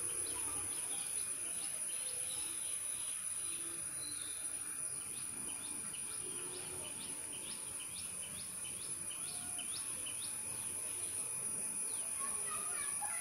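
Small birds chirping outdoors, a run of short quick chirps about twice a second, over a steady high-pitched whine.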